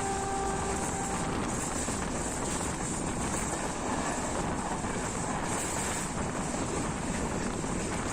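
Class S13 diesel multiple unit train running at speed: a steady rushing noise with wind on the microphone. A brief held tone ends within the first second.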